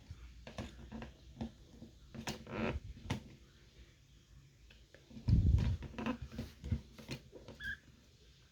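Guinea pig moving about, with scattered light clicks and scuffles and a soft low thump about five and a half seconds in.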